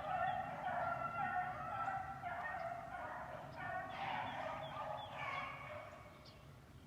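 A pack of rabbit hounds baying together in full cry on a rabbit's track, many overlapping voices at once, the sign that the dogs are on the scent and running the rabbit. The chorus fades near the end.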